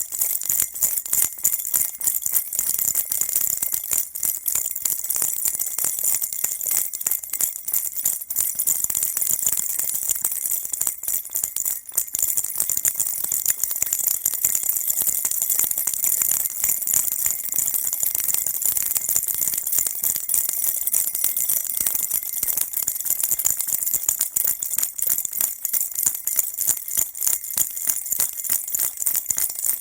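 Baby rattle shaken continuously and fast, a dense, bright jingling at an even loudness with no pauses.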